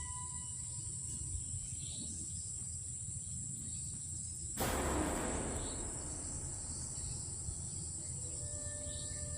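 Steady high-pitched chorus of night insects, crickets, over a low rumble. About halfway through, a sudden loud burst of noise that fades away over about a second.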